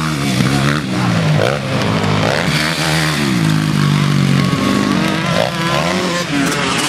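Motocross bikes racing, their engines revving up and dropping back again and again as the riders shift and work the throttle.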